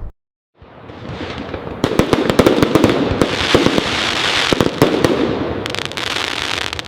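Fireworks crackling: a dense run of rapid sharp pops and crackles that swells in after a brief silence near the start and is busiest in the middle.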